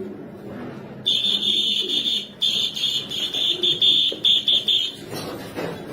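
High-pitched whistle-like signal tone sounded as a feeding call for young pigeons, steady for about a second and a half, briefly broken, then going on and ending in a run of short pulses.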